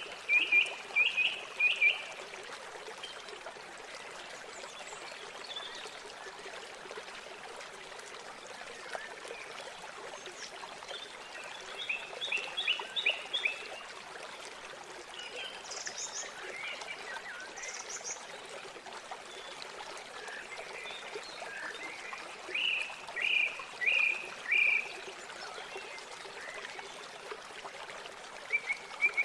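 River water flowing steadily, with birds calling over it: quick runs of four or five notes near the start, around the middle and again a few seconds before the end, and two higher single calls in between.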